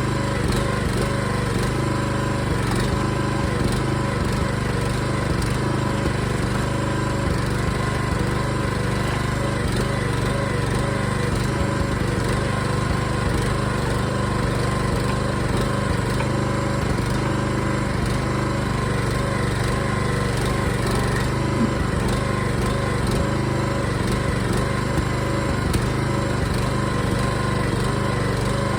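Small gasoline engine of a Harbor Freight backhoe running steadily at a constant speed.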